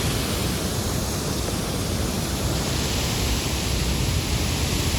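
A large volume of water falling close by, a steady, loud, rumbling rush.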